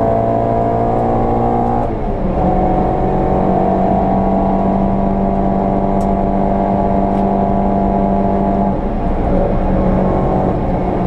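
VW Polo 86C's engine running hard on track at steady revs, with a break in its note about two seconds in, then holding an even pitch.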